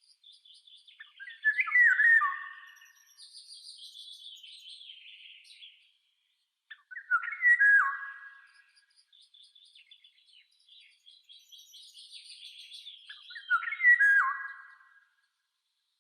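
Songbirds singing: one bird gives three loud, short whistled phrases with falling notes, about six seconds apart, while fainter high twittering from other birds fills the gaps.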